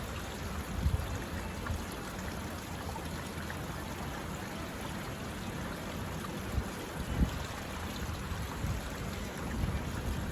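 Steady rushing of running water, with a few soft thumps scattered through it.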